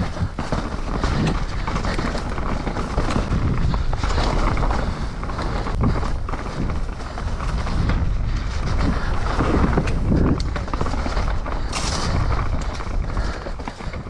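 Riding noise on a rough trail: wind buffeting the microphone, with irregular knocks and rattles over a low rumble.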